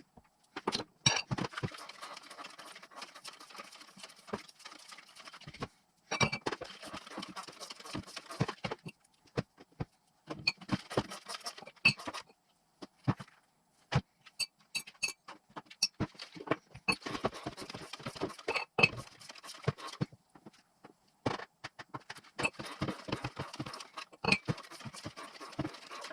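Metal tools and engine parts clinking and knocking in irregular sharp clicks while an engine is put together by hand. Several stretches of steady hiss, each a few seconds long, run between them.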